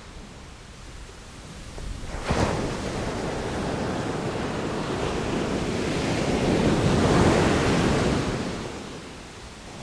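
Sea waves on the shore: one wave breaks with a sharp crash about two seconds in, the surf swells to its loudest around seven seconds, then washes back and quietens near the end.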